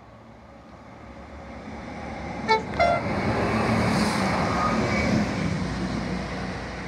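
Diesel multiple unit passing under the bridge, sounding two short horn notes about two and a half seconds in, the second note higher. The train's rumble grows loud as it runs beneath, then begins to fade near the end.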